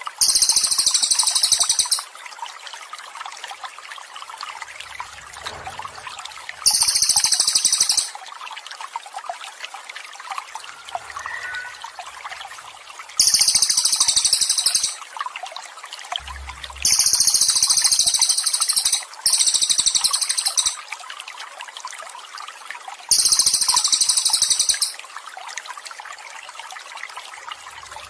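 Songbird master recording: loud high rapid trills lasting a second or two, six times, over a steady trickle of running water.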